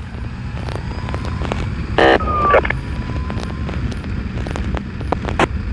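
Motorcycle engine running under steady wind noise on the microphone, with a short burst from the police scanner about two seconds in.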